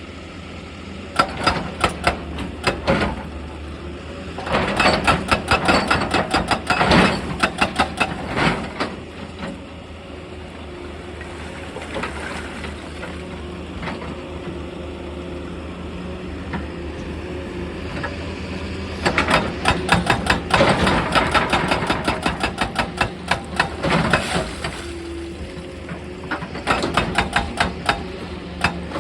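Excavator engine running steadily while its hydraulic breaker hammers rock in several spells of rapid, even blows, each lasting a few seconds, breaking up stone.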